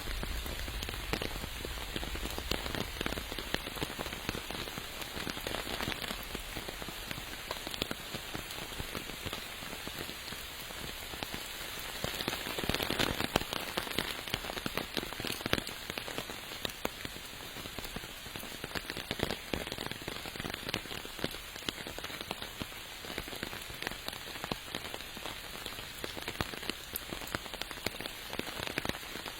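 Steady rain falling, with many individual drops ticking on surfaces, a little heavier about twelve seconds in.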